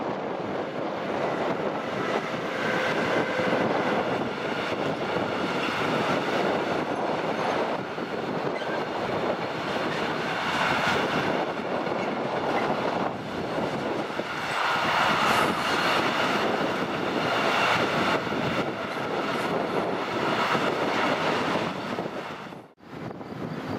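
Intermodal freight train of container wagons rolling past on the track, a steady noise of wheels on rails. It drops out abruptly near the end.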